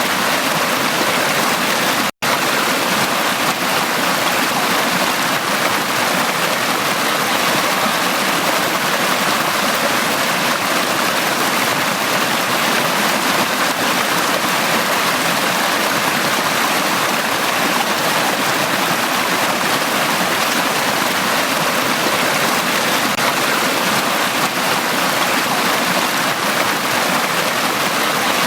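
Mountain valley stream, water rushing and splashing over rocks in a steady, even flow. The sound cuts out for an instant about two seconds in.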